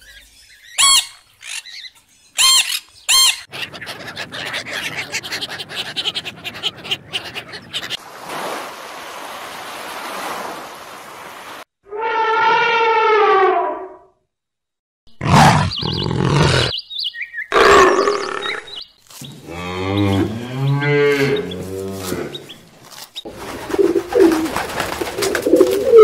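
A string of different animal sounds cut one after another: a few sharp budgerigar chirps at the start, then stretches of rustling noise and a series of other animals' calls, among them a long wavering call about halfway through and a low, stepping call near the end.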